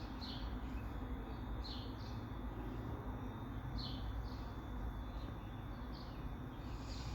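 A bird chirping faintly, short high chirps every second or two, over a steady low hum.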